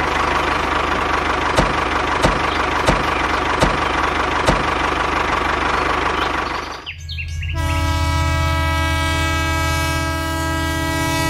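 Tractor engine running steadily, with a knock about every two-thirds of a second. About seven seconds in it gives way to a train horn sounding one long, steady, chord-like blast.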